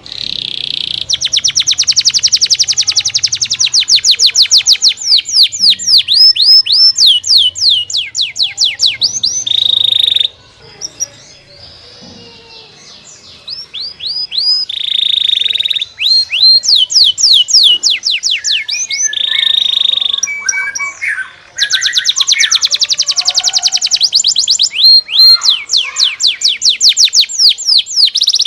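Domestic canary singing: long, loud runs of rapid trills made of quick falling notes, broken by a few held buzzy rolls. The song drops to a quieter, softer stretch about ten seconds in, then picks up again.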